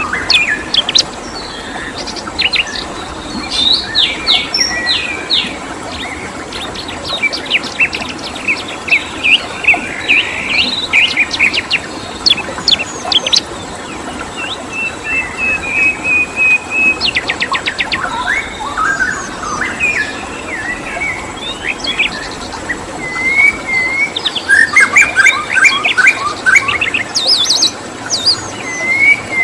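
Several songbirds chirping and singing in quick series of short, sharp notes and trills, over a steady rush of running water.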